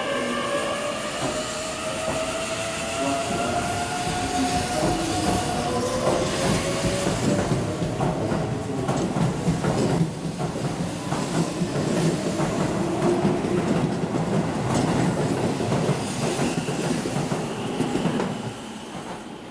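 Electric commuter train moving through the station: its motor whine rises in pitch at first as it gathers speed, then its wheels clatter over the rail joints for about ten seconds before the sound drops away near the end.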